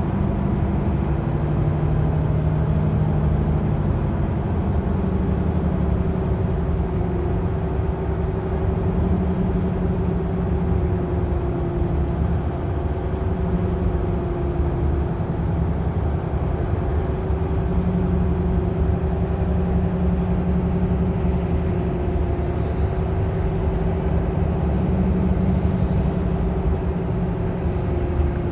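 Bus engine running as the bus drives along, heard from inside the bus. It is a steady low hum whose pitch shifts up and down every few seconds as the engine speed changes.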